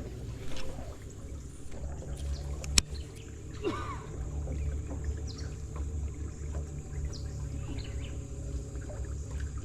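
Steady low rumble of a fishing boat on a river, with one sharp click about three seconds in and a short bird-like chirp just after.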